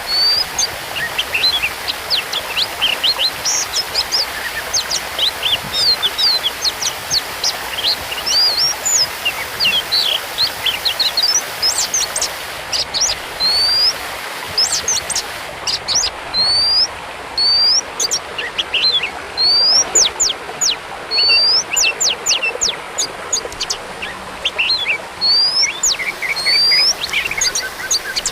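Oriental magpie-robin (kacer) singing continuously: a fast run of sharp whistled notes, with an upward-hooked whistle repeated every second or two, over a steady background hiss.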